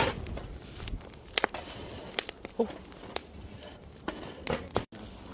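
Wood campfire crackling, with sharp snaps and pops at irregular intervals over the steady low noise of the burning fire.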